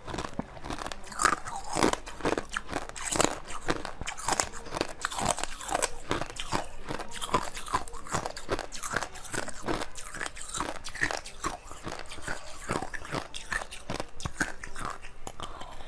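Close-miked mouth sounds of biting and chewing jelly: a dense run of quick wet clicks, squishes and crunches.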